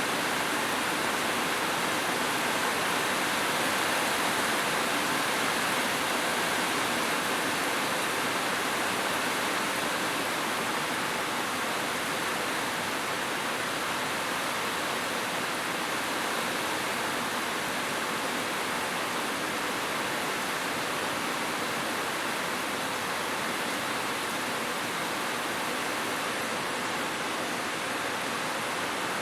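Heavy rain falling steadily on a roof, an even, dense hiss with no thunder.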